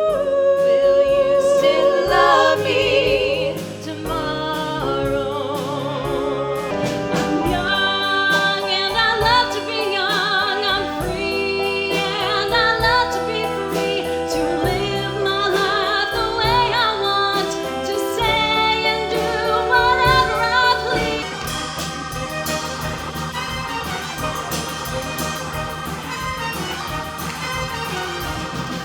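Stage-musical performance of a 1960s-style song: several voices singing held, wavering notes in harmony over band accompaniment, easing into a quieter, steadier passage about two-thirds of the way through.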